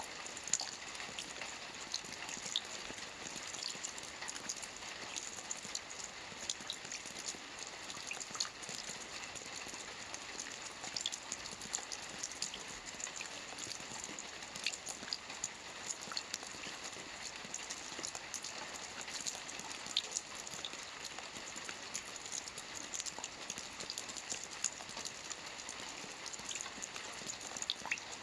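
Steady rain falling on a lake: a continuous hiss with many small drop pats scattered throughout.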